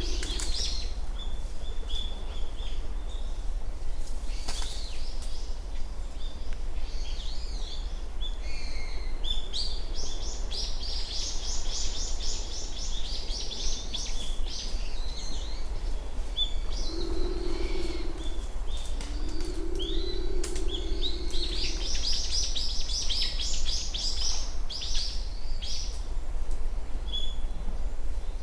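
Small songbirds chirping and calling in a dawn chorus, with runs of fast repeated high notes about ten seconds in and again near the end. Two short low steady hums sound about seventeen and twenty seconds in, over a constant low rumble.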